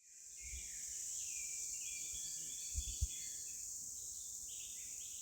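Outdoor nature ambience: a steady high insect drone with small birds chirping over it, fading in at the start. Two soft low thumps come about three seconds in.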